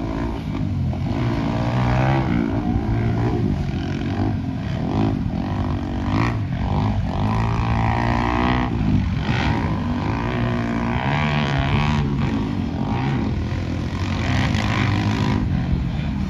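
Several dirt bike engines racing on a motocross track, their pitch rising and falling as the riders open and close the throttle, the sounds overlapping as bikes pass.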